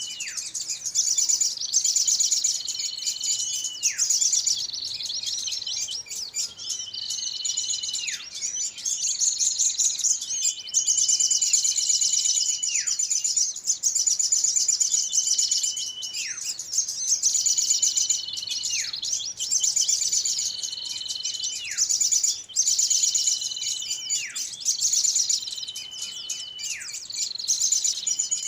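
Bird-lure recording of small birds calling excitedly: a dense, rapid high chatter throughout, over a repeated call that holds a steady whistle and then drops sharply in pitch, about every two seconds.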